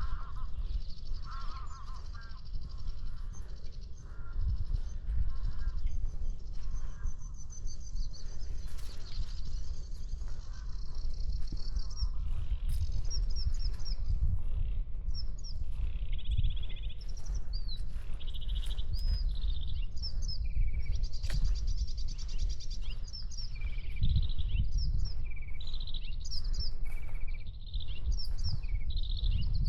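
Several birds chirping and singing, with many short calls that grow busier in the second half, over a steady low wind rumble on the microphone.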